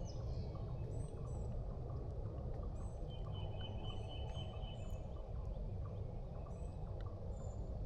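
Woods at dawn: wild turkeys gobbling far off and faint, over a steady low wind rumble on the camera microphone, with small songbirds chirping high and a thin high trill about three seconds in.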